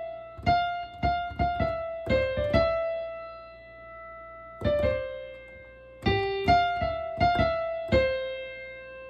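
Piano playing a slow single-note melody with the right hand, in two short phrases of struck notes. The second phrase ends on a note held and left ringing.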